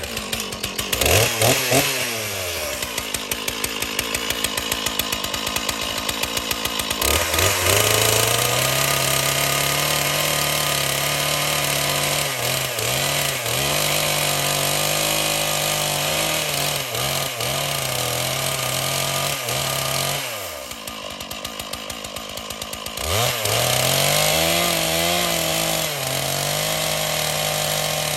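Stihl chainsaw bucking branches: it revs briefly, idles for a few seconds, then runs at full throttle through a long cut with a few short dips. It drops back to idle for a couple of seconds near the end, then revs up to cut again.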